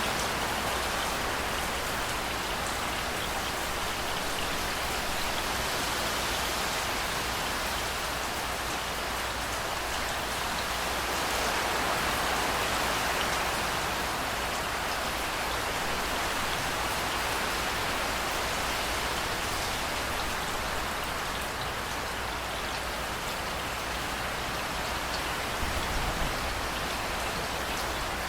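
Rain falling steadily, a dense even patter of drops, swelling a little about halfway through.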